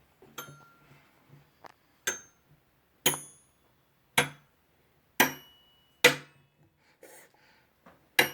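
Xylophone bars struck one at a time, gently and unevenly, about eight single notes roughly a second apart, each ringing briefly and dying away.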